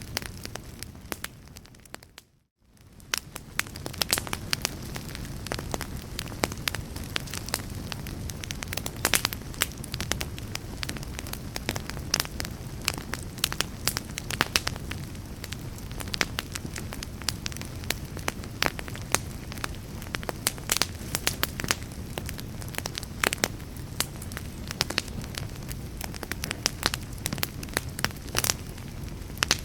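Wood fire crackling, with frequent sharp pops and snaps over a steady low rumble. About two seconds in, the sound fades almost to silence for a moment, then builds back up.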